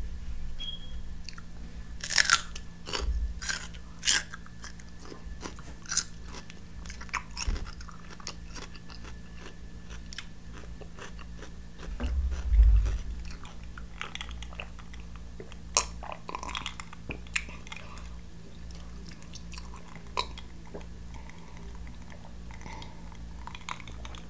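Close-miked crunching and chewing of raw celery sticks, with sharp crisp bites in the first few seconds and more crunches scattered through. A dull thump about halfway through.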